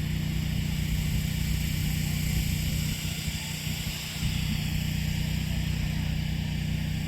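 A steady low engine hum that eases off briefly around the middle.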